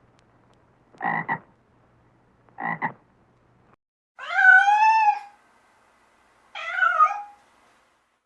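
A frog croaking twice, each croak a short double pulse. Then, after a cut, a cat meowing twice: one long meow that rises and falls, then a shorter one.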